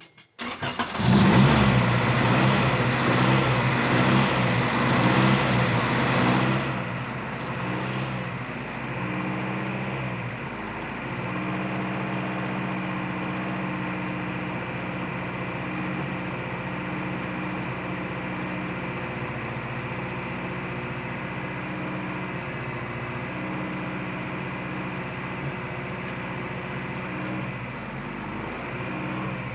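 Acura Integra's engine starting up and running on its first start after an oil pan gasket replacement. It runs higher and louder for about the first six seconds, then settles to a steady idle.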